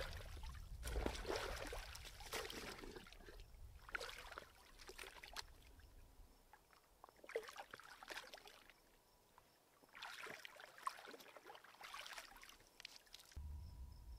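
Lake water splashing and sloshing in several irregular bursts, a person washing himself in the lake by hand.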